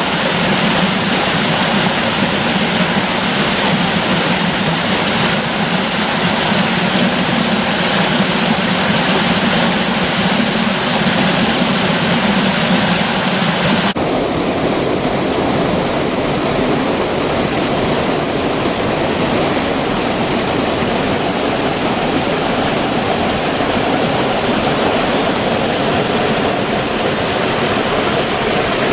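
Creek water rushing steadily. About halfway through, the sound changes suddenly, with less high hiss and a fuller middle.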